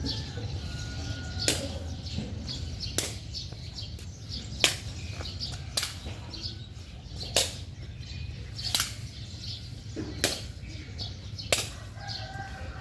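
A steady run of sharp single knocks, one about every second and a half, like something being struck back and forth, over a steady low rumble, with faint bird chirps.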